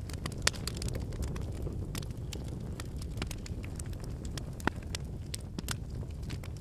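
Wood campfire burning: a steady low rumble of flames with frequent sharp crackles and pops from the logs, two louder pops at about half a second in and near 4.7 seconds.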